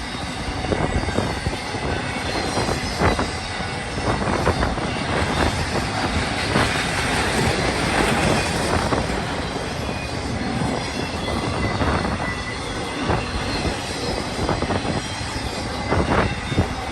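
Empty intermodal flatcars of a freight train rolling past, steel wheels knocking and clanking over the rails in a continuous rush of noise, with a faint thin squeal.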